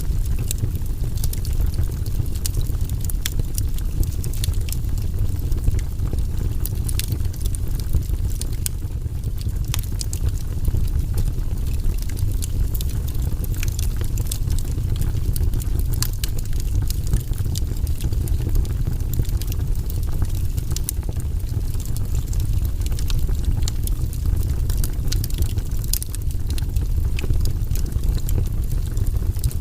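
Fireplace wood fire crackling, with frequent sharp pops and snaps over a steady low rumble.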